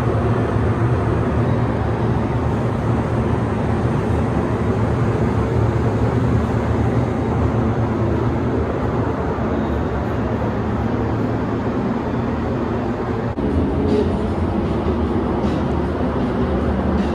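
Steady, loud machine drone with a low hum under a wide hiss, from shop machinery running without pause; a brief dip about 13 seconds in.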